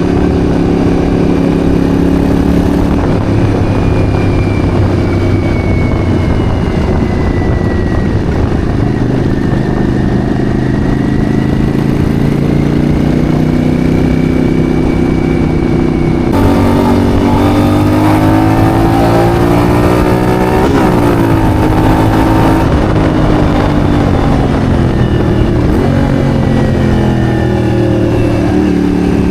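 Yamaha Virago bobber's V-twin engine running under way. It holds steady for the first half, then rises and falls in pitch as the revs change, with a sharp dip about two-thirds of the way in and the revs dropping near the end.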